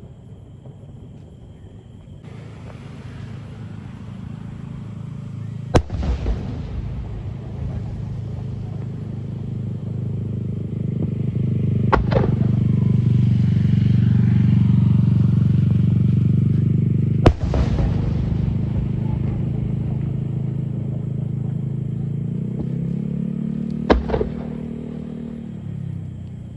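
Four sharp fireworks shell bursts, about six seconds apart, over a loud, steady low hum that swells in the middle and rises in pitch before fading near the end.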